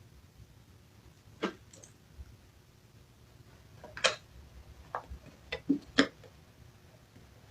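A handful of short, sharp clicks and knocks against quiet room tone: one about a second and a half in, then a quick cluster of five between four and six seconds in.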